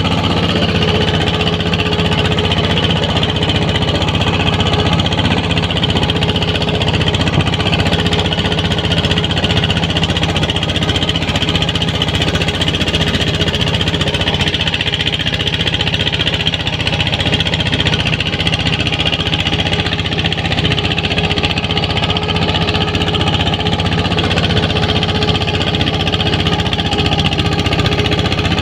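ZT 155 tractor engine running steadily at an even speed.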